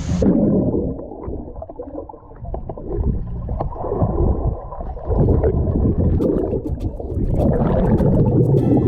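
Muffled underwater sound of a swimming pool picked up by a submerged camera: uneven sloshing and bubbling with small clicks, all high-pitched sound cut off from the moment it goes under.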